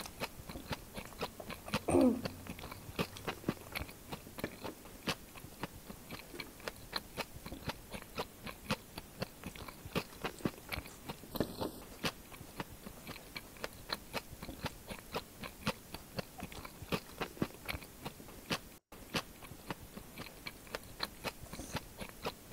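A person chewing and biting food with wet mouth sounds, picked up close by a clip-on microphone: a steady run of small clicks, two or three a second, while eating spoonfuls of ghugni (spiced pea curry). A short falling vocal sound comes about two seconds in.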